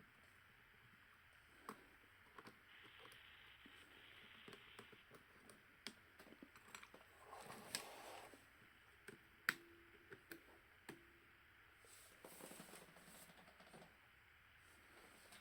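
Faint scattered clicks and short scrapes of small hand tools on the plastic and metal parts of an opened Nikon D5600 camera during disassembly. The sharpest click comes about halfway through, and there are brief scraping stretches just before and after it.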